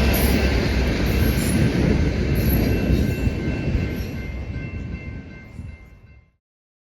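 A train passing: heavy rumble and rail noise, with a few faint steady high tones above it. It fades away over the last couple of seconds, then cuts off to silence.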